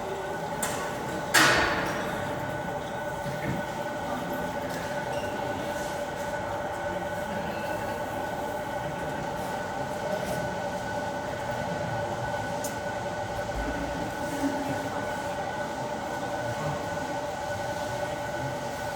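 Steady machine hum made of several constant tones, with one sharp knock or bang about a second and a half in.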